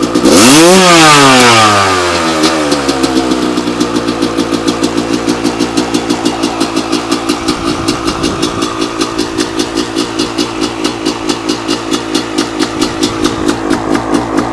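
Suzuki RM250 two-stroke dirt bike engine, warmed up, given one quick blip of the throttle right at the start that rises and falls back over about two seconds. It then settles into a steady, evenly pulsing idle at the lowest idle it has been tuned to hold.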